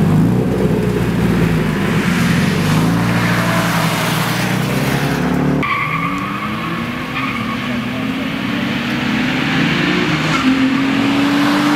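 Race cars' engines revving hard, held at high revs at first; after a sudden cut, an engine climbs steadily in pitch as a car accelerates hard down the road.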